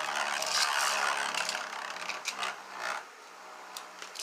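Ratcheting, rasping clicks of Beyblade launchers being readied for launch, dying down about three seconds in.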